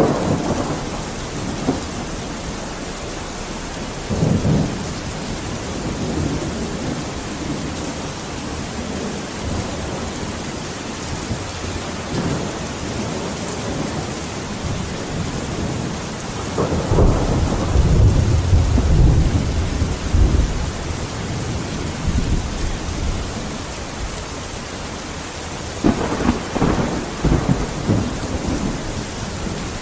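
Steady heavy rain with rolling thunder: rumbles swell about four seconds in, a louder, deeper peal from about 17 to 21 seconds, and another rumble near the end.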